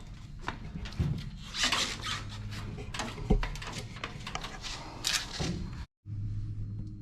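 Scuffing and rustling from a person climbing up over a large truck tire and bumper, with handling noise on the handheld camera and one sharp thump about three seconds in. The sound cuts out for a moment near the end.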